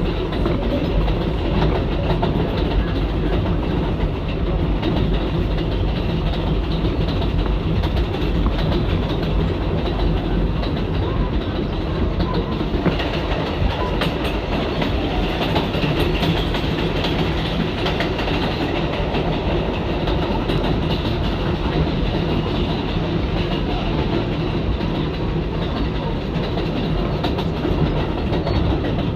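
Inside a moving R188 subway car: the steady running noise of the train, with wheels clicking over rail joints.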